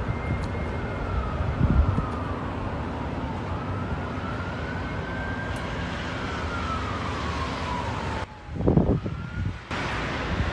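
A siren wailing slowly up and down over a steady windy rumble; the sound drops out briefly with a low thump about eight seconds in.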